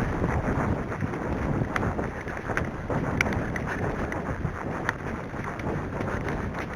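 Wind buffeting the microphone as a steady rumble, with a few scattered sharp clicks.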